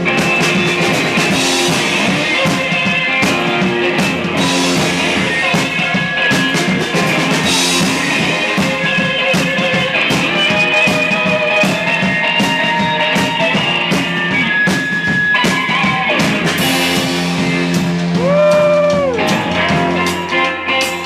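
A rock band playing live: electric guitar and drum kit in an instrumental passage with no singing, with steady drum hits under the guitar. Near the end, a held note swoops up and then falls away.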